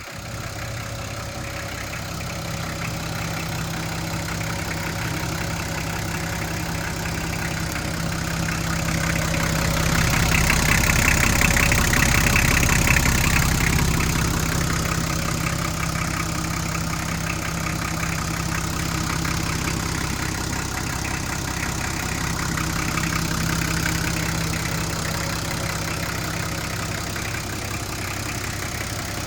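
Nissan RD28 2.8-litre straight-six diesel engine idling steadily, growing louder for a few seconds around the middle.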